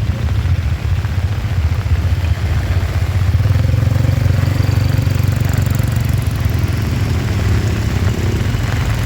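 A vehicle engine running at a steady low idle, getting somewhat louder about three seconds in.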